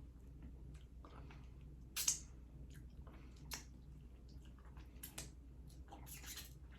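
Faint close-up chewing of barbecue pork ribs, wet and squishy, with a few short sharp mouth smacks and clicks scattered through, the clearest about two and five seconds in.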